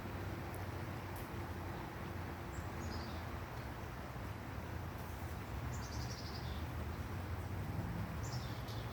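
A small bird calling: three short runs of high chirps, each falling in pitch, over a steady low background rumble.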